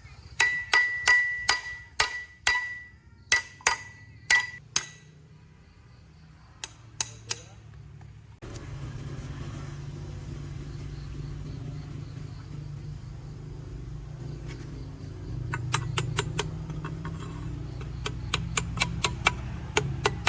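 A hammer striking metal a dozen or so times in quick succession, several blows leaving a ringing tone. About eight seconds in, a steady low hum starts suddenly. Near the end, rapid clicking joins it at several clicks a second.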